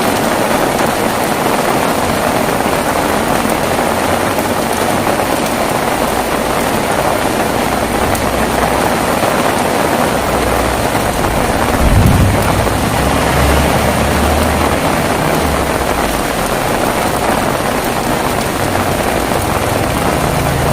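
Heavy rain falling steadily, with a low rumble of thunder rolling in about halfway through, briefly loudest just past the middle, then dying away.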